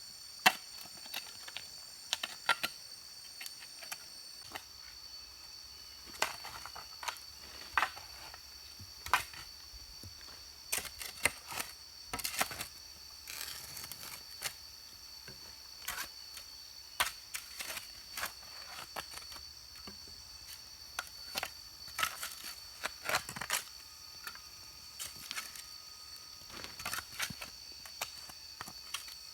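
Irregular sharp clicks and light knocks, a few a second at times, over a steady high-pitched insect drone.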